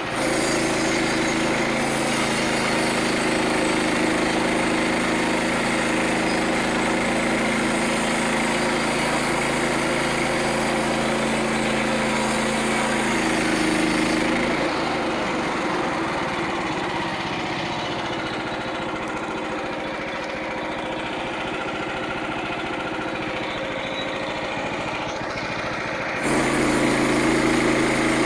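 Small engine of a portable bandsaw mill running steadily. Its pitch pattern changes abruptly about halfway through and switches back abruptly near the end.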